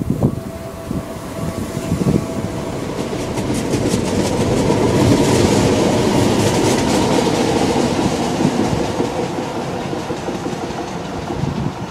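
Tyne and Wear Metro train pulling out and running past, wheels clicking over the rail joints over a steady electric whine. It grows loudest about halfway through as the carriages pass, then fades as the train draws away.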